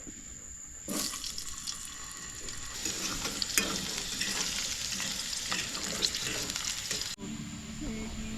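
Potatoes frying in a hot pan, sizzling with a dense crackle. The sound starts suddenly about a second in and cuts off abruptly near the end.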